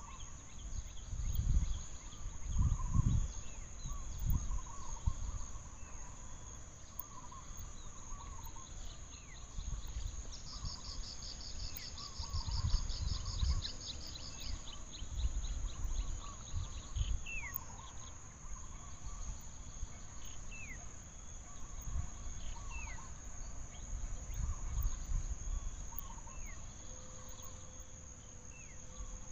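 Forest ambience: a steady high insect drone, with a rapid insect-like trill for a few seconds in the middle and short falling bird chirps scattered throughout. Low rumbles come and go underneath.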